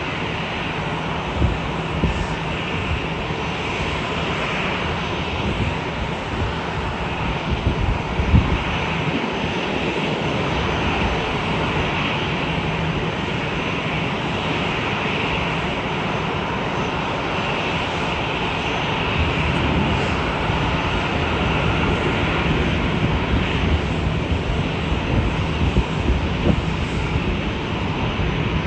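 Jet airliner engines running with a steady roar that grows slightly louder near the end.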